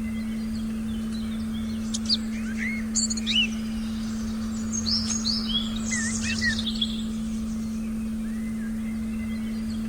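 Forest birds chirping and whistling in short, scattered calls, busiest in the middle of the stretch, over a steady low pure tone and a faint low rumble.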